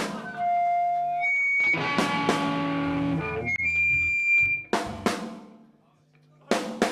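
Live rock band: a hit at the start, then an electric guitar chord rung out and left to ring for several seconds, fading away. Drum hits come in near the end.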